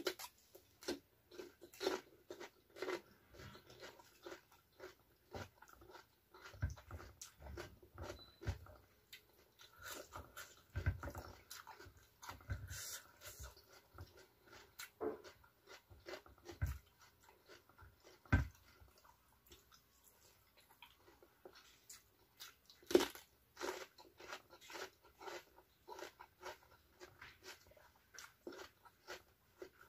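Close-miked chewing and crunching of raw vegetables, mostly fresh cucumber, with irregular crisp bites throughout and a few louder ones.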